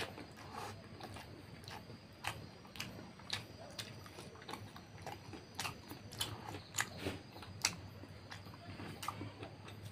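Close-up chewing of a mouthful of rice and fatty pork curry eaten by hand, heard as irregular wet mouth clicks and smacks, several a second.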